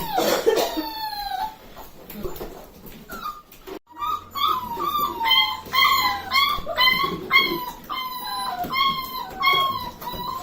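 Four-week-old puppy crying with a run of short, high whining yelps, each falling in pitch, about one or two a second.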